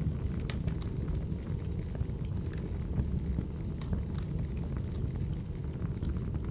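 Wood fire burning with a steady low roar and frequent sharp crackles and pops of the burning logs.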